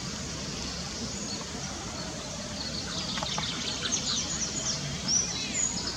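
Small birds chirping in quick, high, short notes, with a rapid run of repeated notes near the end, over a steady background noise. The chirping starts about halfway through.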